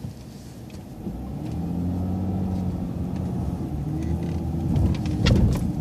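City transit bus's engine speeding up under load as the bus pulls away into a left turn, its low drone steadying after about a second. A few sharp clicks come near the end.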